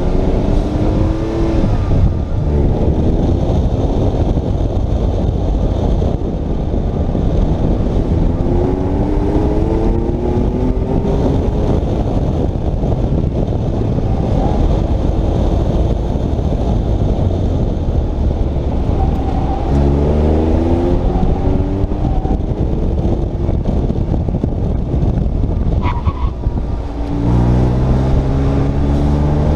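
Porsche 997's flat-six engine pulling hard on an autocross run, heard from the cockpit. The revs climb in rising sweeps about four times as the car accelerates between cones, with steadier stretches between them, over a constant rush of road and wind noise. A brief dip in the sound comes near the end, just before the last climb.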